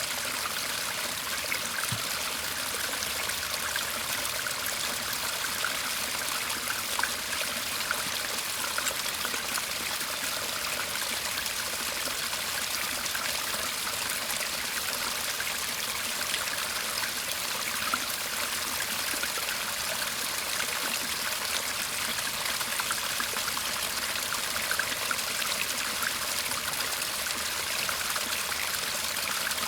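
Shallow garden stream murmuring steadily: a continuous, even trickle of running water.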